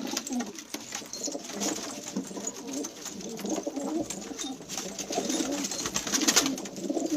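Several domestic pigeons cooing, their calls overlapping without a break, with a brief rustle about six seconds in.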